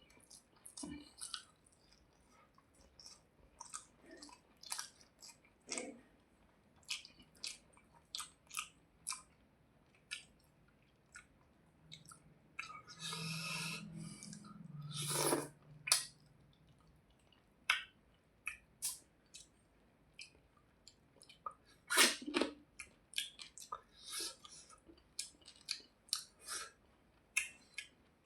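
Close-miked chewing and wet mouth smacks of a person eating rice and hilsa fish, irregular short smacks throughout with a longer noisy stretch about halfway.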